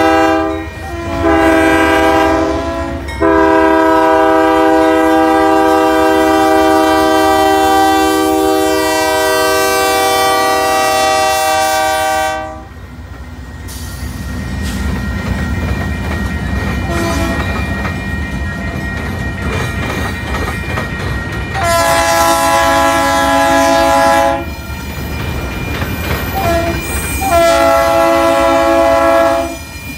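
Freight train's diesel locomotive air horn blowing a chord of several notes as the train approaches the crossing: two short breaks near the start, then one long blast that cuts off about twelve seconds in. Then locomotives pass close with a deep engine rumble and the clatter of wheels on rail, and the horn sounds twice more near the end.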